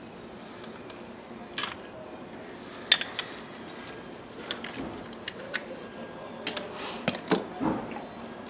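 Scattered sharp metallic clinks and clicks of hand tools and metal parts being handled, about ten in all, more frequent in the second half.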